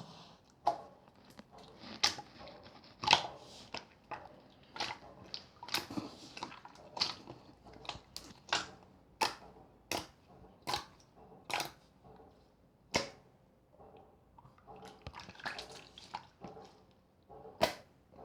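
Clear slime being worked by hand, its trapped air pockets popping with sharp clicks about once every second or less. Near the end the clicks give way to a denser, softer crackling, with one more loud pop.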